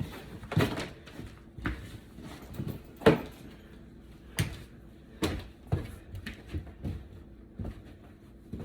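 Irregular knocks, thumps and scrapes of old plywood subflooring and linoleum being pried up and handled, about a dozen hits with the loudest about three seconds in.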